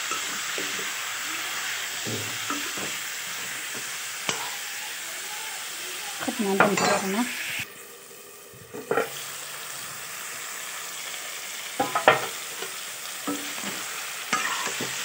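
Pork pieces frying and sizzling in a wok while being stirred, the metal spatula scraping and clicking against the pan. About halfway through there is a louder clatter, and the sizzle briefly drops away before the frying and stirring resume.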